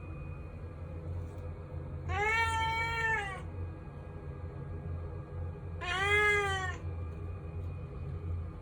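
Domestic cat meowing twice: a long meow about two seconds in and a shorter one about six seconds in, over a steady low hum.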